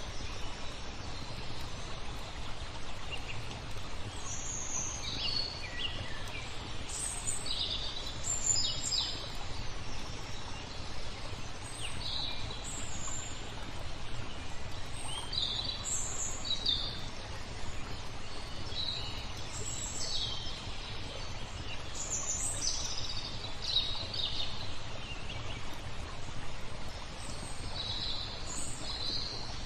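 Small songbirds chirping in short, repeated calls throughout, over a steady hiss of flowing water.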